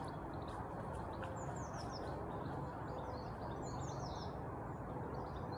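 Small birds chirping in several quick clusters of short, high, downward-sliding notes, over a steady low background rumble of outdoor noise.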